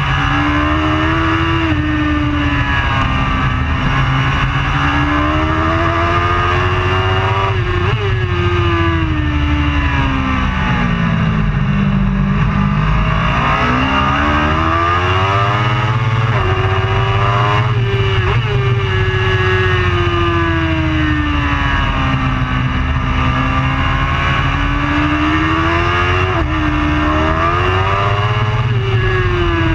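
Superbike racing motorcycle engine running hard, its pitch repeatedly climbing and falling as it accelerates and brakes through the gears, with quick gear changes about 8, 18 and 26 seconds in.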